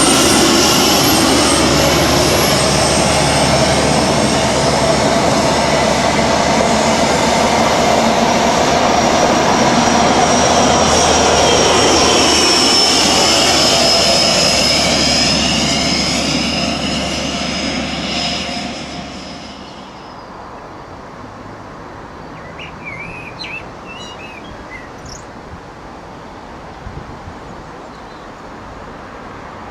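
InterCity 125 High Speed Train with Class 43 diesel power cars running past, loud and steady with a high whine over the engine and wheel noise, fading away about two-thirds of the way in. Birds chirp a few times in the quiet afterwards.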